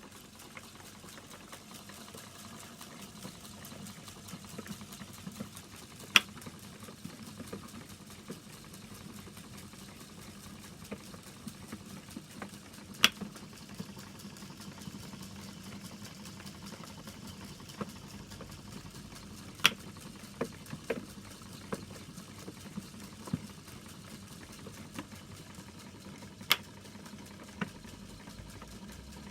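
Small mechanism of a 1930s sawmill automaton running: a steady fine clatter over a low hum, with a sharp click repeating about every seven seconds as the mechanism cycles, four times, plus a few lighter clicks.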